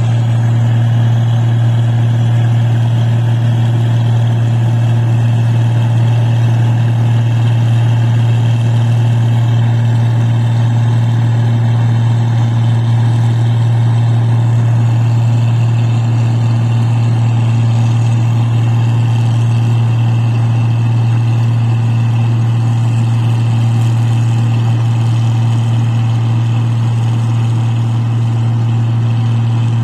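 Engine of a rice paddy machine running at a steady speed, a loud, unchanging low hum with mechanical noise over it.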